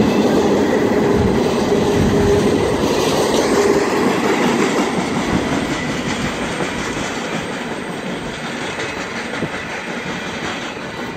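Empty container well cars of a freight trash train rolling over the rails, a steady wheel-and-rail rumble that fades from about halfway through as the end of the train moves away.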